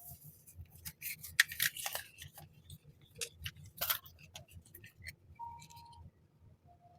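Hands unboxing haul items: plastic and paper packaging crinkling with scattered clicks and light clinks, busiest between one and two seconds in and again near four seconds. A short squeak follows a little past five seconds.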